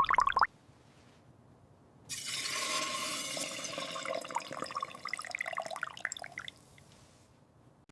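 Hissing, trickling liquid sound that starts suddenly about two seconds in and fades away near the end.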